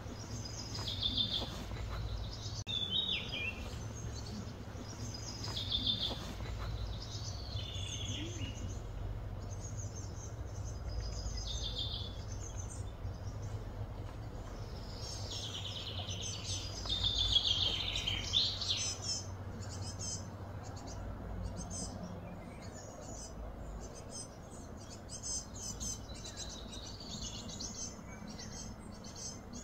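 Birds calling repeatedly in short, falling chirped phrases, loudest about two thirds of the way through, then quicker, shorter chirps, over a steady low hum.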